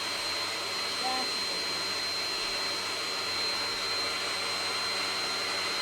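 Vacuum cleaner running steadily, with a thin high-pitched whine held on one note over its even rushing noise.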